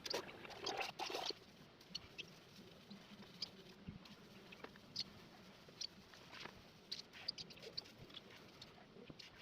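Faint handling noise: a short spell of scratching and rustling about a second long, then scattered light clicks and ticks.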